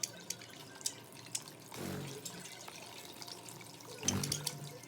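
Java sparrows bathing in a water dish, played at double speed: quick splashes and drips, with two louder bouts of splashing, about two seconds in and about four seconds in.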